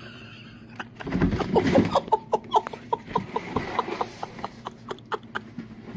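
A loud burst of noise, then an animal making a quick run of short, pitched calls, about four a second, that fades out near the end.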